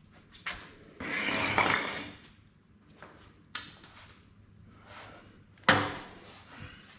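Hand tools and metal parts clanking and knocking during work on a truck's underside, with a scraping, rattling noise lasting about a second near the start and a sharp knock, the loudest, near the end.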